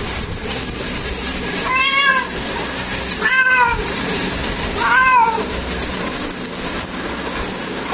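Female cat meowing three times, each call about half a second long and rising then falling in pitch, over steady background noise. She is calling for a mate.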